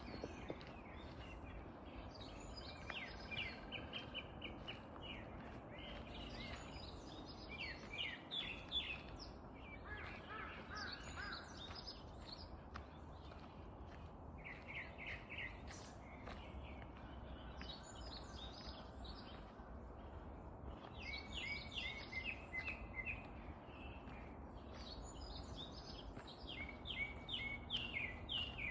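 Wild songbirds singing: short bursts of quick chirping notes every few seconds, over a steady low background rumble.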